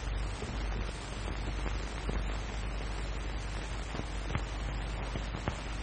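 Steady hiss and low hum of an early optical film soundtrack, with a few faint crackles.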